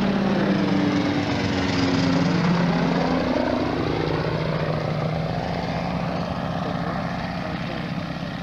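Light propeller aircraft flying past overhead. The engine drone drops in pitch about two seconds in as it passes, then slowly fades away.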